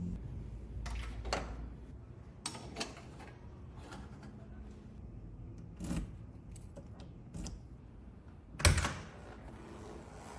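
Scattered clicks and knocks, with one louder knock near the end.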